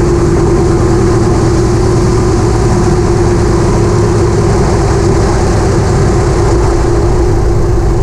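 Jacobs seven-cylinder radial engine of a 1935 Waco biplane idling steadily on the ground during shutdown checks.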